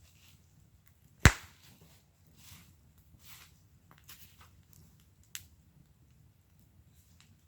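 Wood burning in a fire pit, crackling softly, with one loud sharp pop a little over a second in and a smaller pop about five seconds in.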